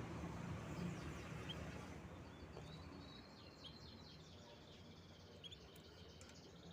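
Canaries giving faint, scattered short chirps, over a low background rumble that fades away during the first few seconds.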